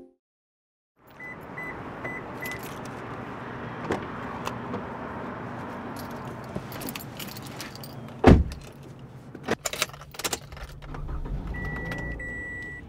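Sounds inside a car: a steady hiss with four short electronic beeps, a heavy thud of a car door shutting about eight seconds in, then keys jangling and going into the ignition, with a steady electronic warning chime near the end.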